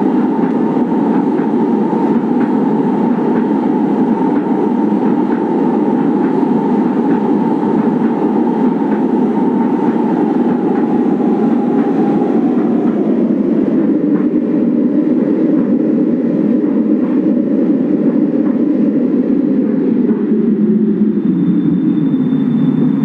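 Kinki Sharyo/Nippon Sharyo-built 1200-series light-rail train running on the rails with a steady, loud rumble. The rumble drops lower in pitch from about halfway through, as the train slows, and a thin high whine joins in near the end.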